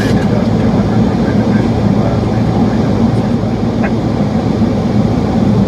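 Steady noise of a Boeing 737 flight deck in flight: a continuous rush of airflow and engine noise with a low hum underneath.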